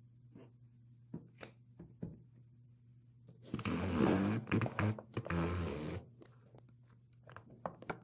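Soft taps and squishing of a foam squishy being pressed into slime on a tabletop. In the middle comes a louder sound of about two and a half seconds that starts and stops abruptly.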